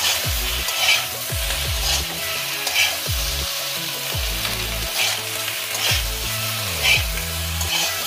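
Potato wedges and spice paste frying in oil in an aluminium kadai, sizzling steadily while a metal spatula scrapes and stirs them about once a second.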